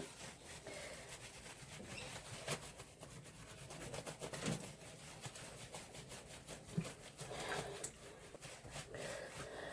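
Hands rubbing and scrubbing shampoo lather into a wet dog's coat, a faint irregular wet rubbing and rustling.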